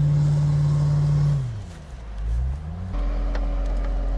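Volvo SUV's engine running at steady revs as it drives through sand, then dropping in pitch and climbing again. About three seconds in it changes abruptly to the engine idling steadily with the vehicle stopped.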